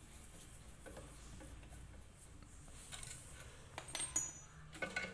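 Faint, scattered metallic clicks and clinks of hand tools and bolts as a front-load washing machine's counterweight fittings are undone, with several clicks close together near the end.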